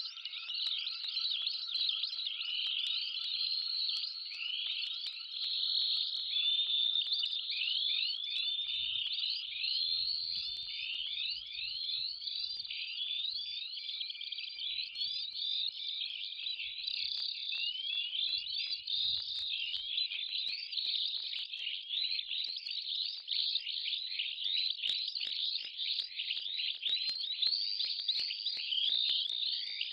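Dense, continuous chirping of many small birds, rapid overlapping downward-sweeping chirps, over a faint steady tone that fades out about halfway through.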